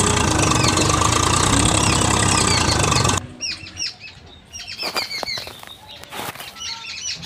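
Small birds chirping over and over, with a loud steady rushing noise through the first three seconds that cuts off suddenly, followed by a few light clicks and taps.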